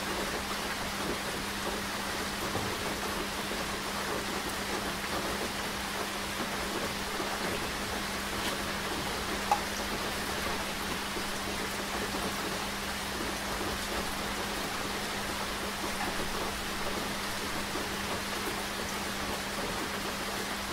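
Steady rain falling and pattering on surfaces, with a single sharper drop tap about halfway through. A steady low hum lies underneath.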